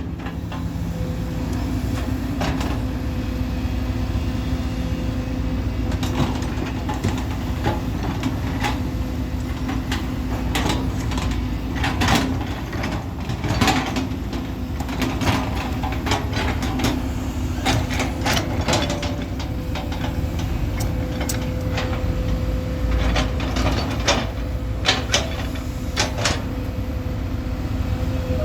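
Truck engine running steadily with a constant hum, with frequent short rattles and knocks throughout.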